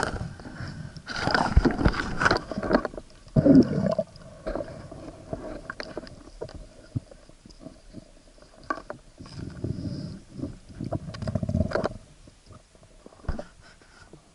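Water sloshing and gurgling around an action camera in its waterproof housing, in uneven swells with many small clicks and knocks.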